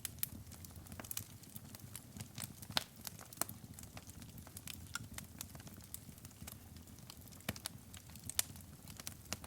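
Wood fire burning in a fireplace: irregular crackles and sharp pops over a low steady rumble of flame, with a few louder snaps, one near the end.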